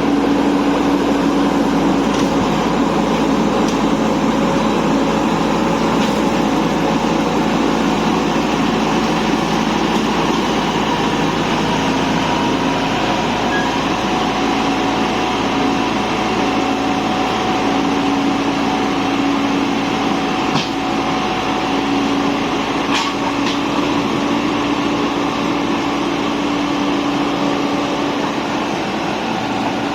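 Motor vehicle running steadily on the road: continuous engine and road noise with a steady hum that fades in and out.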